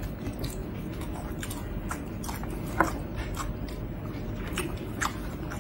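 Close-up chewing and mouth smacks of people eating pork, rice and potatoes by hand: scattered short clicks and smacks over a steady low hum, with one sharper click a little under three seconds in.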